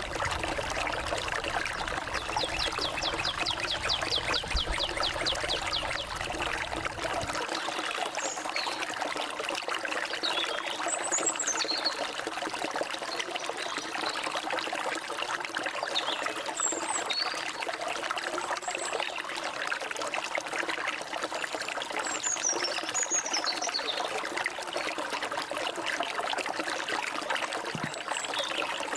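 Steady flow of a stream, with short high bird chirps scattered throughout and a fast trill a few seconds in.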